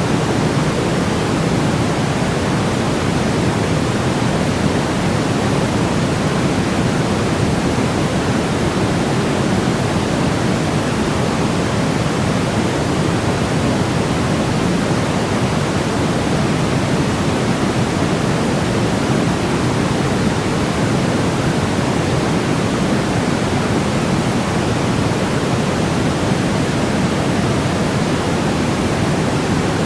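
Steady synthetic noise, weighted toward the low end like pink noise, with no change in level or character: a continuous sleep-noise track for babies.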